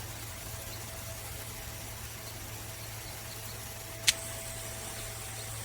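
Steady hiss with a low hum as water runs through a Camplux portable propane tankless water heater and out of its shower head. A single sharp click about four seconds in.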